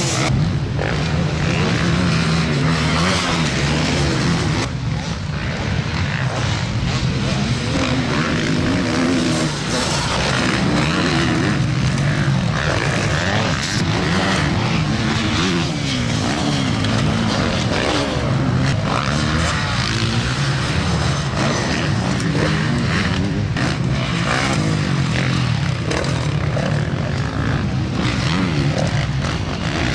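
Several motocross motorcycle engines revving up and down as the bikes race, their overlapping rising and falling pitches running on without a break.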